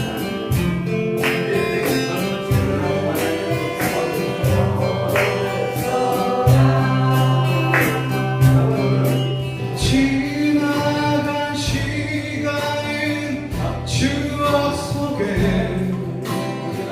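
Acoustic guitars strummed in a steady rhythm while a group of voices sings a slow Korean song together.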